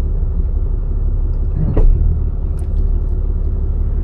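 Steady low rumble of a running vehicle, with a single short knock a little under two seconds in.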